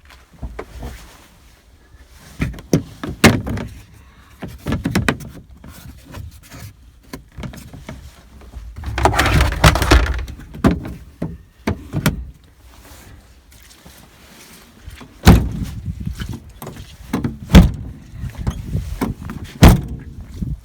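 Irregular clunks and knocks from a 1998 Volkswagen Caddy's doors and body being handled, with a longer rough scraping noise about nine seconds in and three sharp slams near the end.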